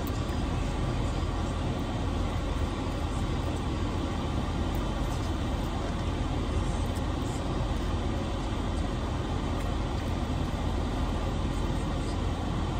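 Steady low rumble and hiss of a car running at idle, heard from inside the cabin.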